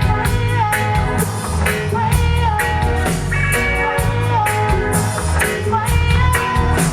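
Live roots reggae band playing a steady beat, with a short lead melody figure repeating over it.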